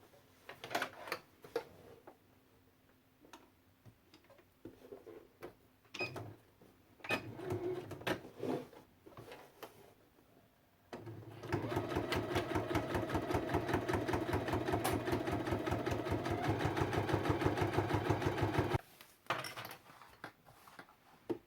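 Several seconds of scattered clicks and knocks, then an electric sewing machine stitching in one steady fast run of about eight seconds that stops abruptly.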